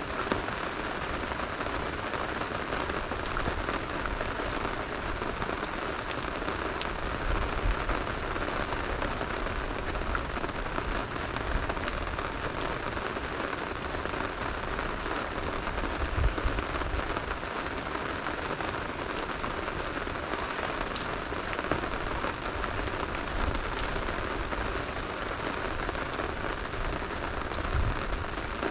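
Steady rain falling, with a few sharp ticks and occasional dull low bumps through it.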